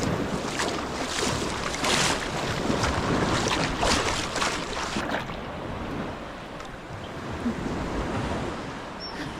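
Sea waves washing and splashing along the shore, with wind blowing on the microphone; the splashing is strongest in the first half and eases after about five seconds.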